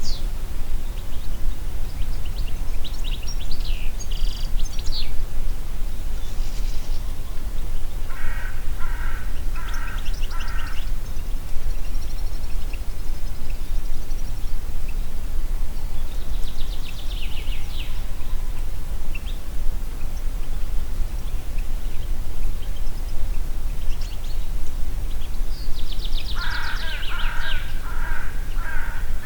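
Wind in the forest with a steady low rumble, and birds calling and singing over it; a bird gives a run of harsh, rapidly repeated calls about eight seconds in and again near the end.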